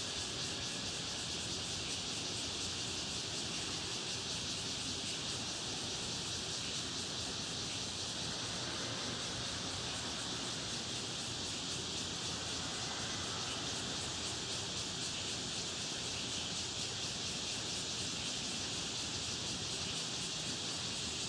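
A steady, even high-pitched hiss with no distinct calls or knocks, holding the same level throughout.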